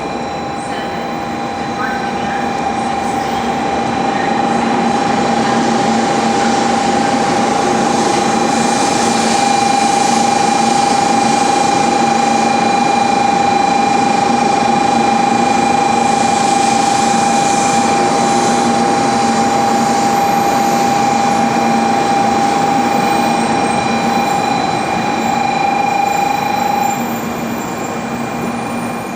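Electric train running along a station platform: a steady rush of wheels and running gear that builds over the first few seconds and eases off near the end, with a steady high whine that stops near the end.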